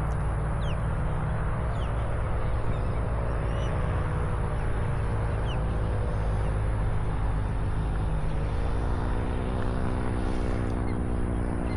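Paramotor trike engine and propeller droning in the air, its pitch sagging about midway and then rising again, with wind rumbling on the microphone. A few short bird chirps come through on top.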